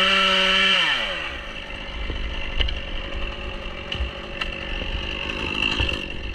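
Chainsaw held at full throttle with a steady high engine note, then released about a second in so the pitch falls away to a quieter idle. A few faint sharp clicks follow.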